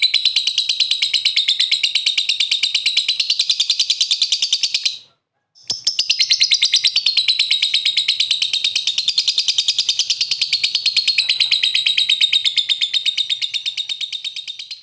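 Lovebird in a long, fast chattering trill (ngekek), a rapid string of high chirps. It breaks off for half a second about five seconds in, then starts again and fades near the end.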